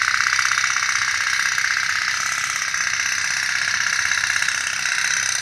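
Tin pop-pop (putt-putt) toy boat running, its heated boiler pulsing and clicking in a rapid, steady rhythm as it drives water out and pushes the boat along.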